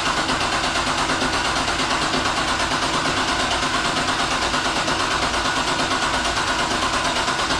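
Corvette V8 being cranked over on its starter without firing, with a steady, even, rapid chug. The freshly cammed engine is being spun to prime its oil system before its first start.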